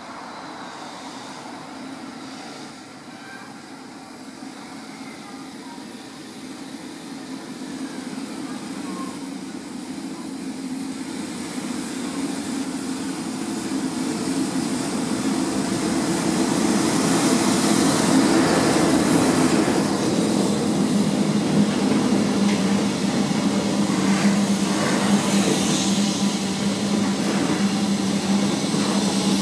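Freight train of tank wagons hauled by an EF65 electric locomotive, approaching and growing steadily louder for about seventeen seconds, then running close past with a steady rumble of wheels as the tank wagons roll by.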